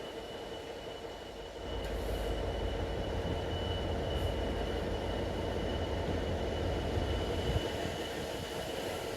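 Freight train on the move: a steady deep rumble that grows louder about a second and a half in, with a steady whine held over it.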